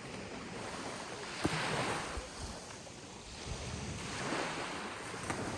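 Ocean waves breaking and washing in, swelling twice, once about a second and a half in and again around four seconds, with wind buffeting the microphone.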